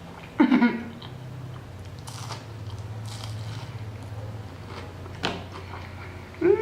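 Close-miked chewing of a large mouthful of chicken burger, with soft wet clicks and smacks over a steady low hum. A short pitched, voice-like sound comes about half a second in.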